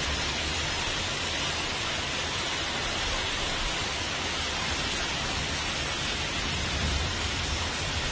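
Heavy downpour of rain and hail, a steady, even hiss of falling water and ice on a roof.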